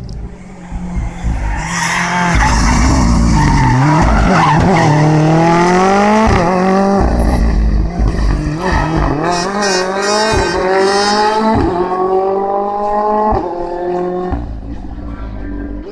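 Rally car engine at full throttle as it passes. The engine dips and picks up again, then revs up through two gears, with a sharp cut at each upshift, and fades away near the end.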